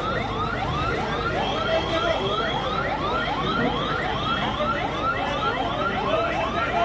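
An emergency vehicle's electronic siren sounding a fast yelp: rising sweeps repeated about four times a second, going on steadily.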